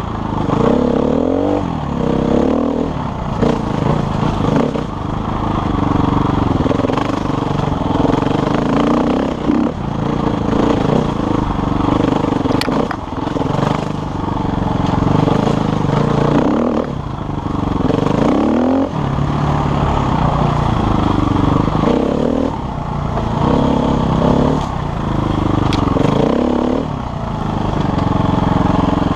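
KTM enduro motorcycle engine revving up and down over and over as the throttle is worked on a trail ride, its pitch rising and falling every couple of seconds.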